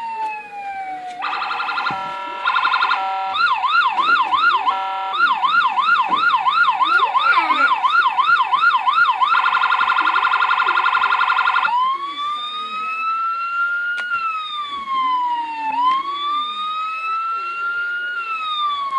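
Electronic toy police siren fitted to a Power Wheels ride-on car, switched through its tones: a falling wail, a few seconds of stepped tones, fast repeating up-and-down yelp sweeps for about six seconds, a very rapid warble for about two seconds, then a slow rising and falling wail.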